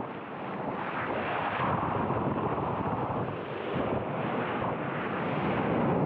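Steady rushing of wind on the microphone mixed with ocean surf and water around the waveski.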